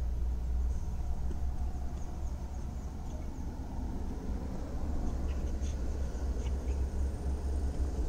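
Car engine idling, a steady low rumble heard from inside the cabin, which cuts off sharply near the end. Faint bird chirps sound above it.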